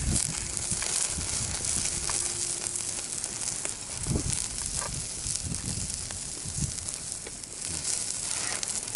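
Pork sizzling on a grill over a wood fire in a fire-pit stand: a steady hiss full of fine crackles, with a few soft low thumps in the middle.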